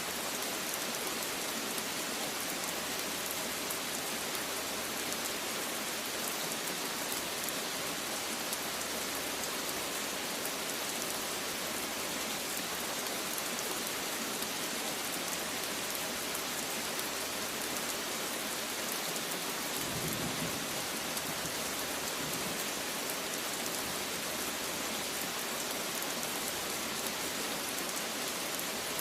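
Steady rain falling and pattering on surfaces, an even unbroken hiss. About two-thirds of the way through there is a brief low rumble.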